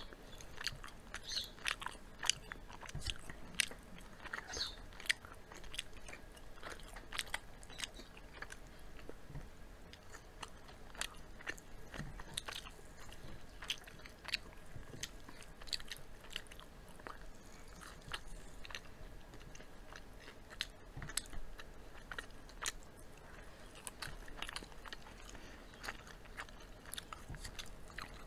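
Two people chewing and biting into fried chicken and roasted chicken, with frequent, irregular, sharp crunches.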